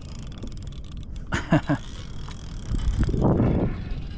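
Fishing reel at work as a fish takes the line, with mechanical clicking and whirring. A couple of sharp swishing strokes come about a second and a half in, and a louder rushing noise follows near the three-second mark.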